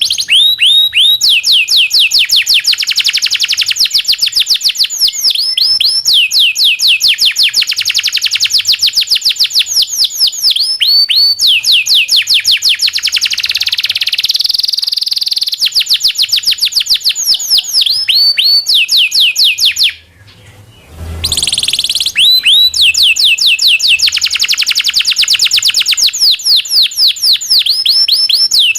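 Domestic canary (local Indonesian kenari) singing a long song of fast trills and rolls: rapid runs of repeated sweeping notes, one after another. The song breaks off briefly about two-thirds of the way through.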